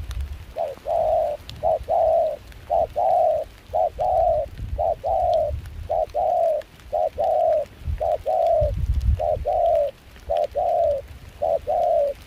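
Spotted dove cooing over and over, each phrase a short note then a longer, slightly falling coo, about once a second, over a low rumble of wind.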